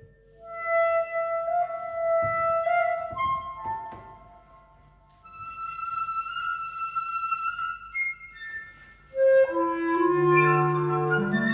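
A woodwind trio of flute and two clarinets playing a slow chamber piece in phrases of held notes, with a short quiet gap partway through. Near the end, lower clarinet notes join and the music grows louder.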